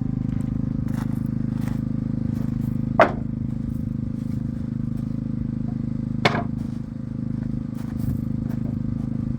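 Diesel engine of a Kubota mini excavator running steadily at idle, with two sharp knocks, about three seconds in and again about three seconds later.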